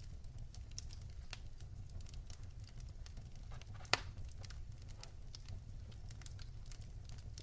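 Wood fire in a fireplace crackling, with a steady low rumble of the flames and irregular small pops and snaps, one sharp louder pop about four seconds in.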